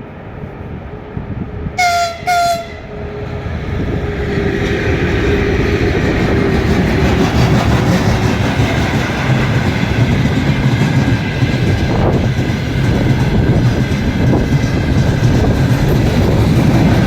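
VL11 electric locomotive giving two short horn blasts about two seconds in. Then the rumble builds as the locomotive and its tank cars roll past, with wheels clattering over the rail joints.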